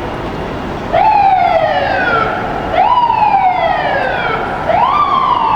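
Fire engine siren sounding in three sharp wind-ups about two seconds apart. Each one jumps up in pitch and then slowly coasts down.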